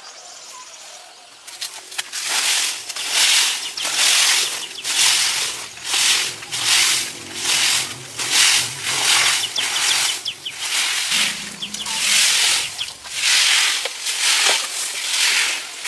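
Repeated rasping strokes of a hand tool worked against a surface, a little more than one a second, starting about a second and a half in.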